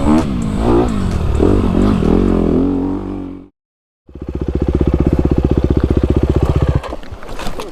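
Dirt bike engine revving up and down while riding, then cutting off abruptly about three and a half seconds in. After half a second of dead silence it is back, running at a steady, pulsing note that drops away near the end, with some clatter.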